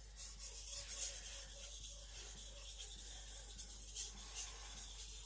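Aogami carbon-steel gyuto edge stroked back and forth across a wet whetstone under very light pressure, only the weight of the blade: a faint, soft scraping that comes in irregular strokes.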